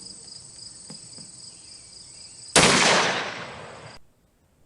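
A 6.5 Creedmoor Howa 1500 bolt-action rifle fires a single shot about two and a half seconds in. The report echoes for over a second and then cuts off suddenly. Insects chirp steadily before the shot.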